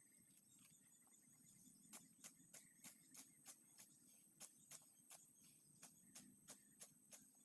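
Hand sickle cutting through grass stems in quick strokes, a run of short crisp snips about three a second starting a couple of seconds in. Insects trill faintly and steadily underneath.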